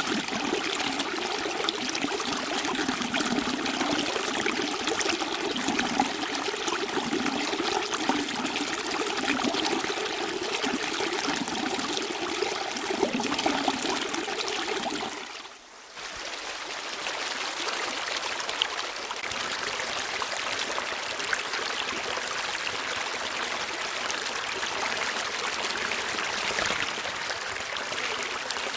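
Steady flowing water, like a stream trickling. About halfway through it dips briefly, then carries on with less of its low sound.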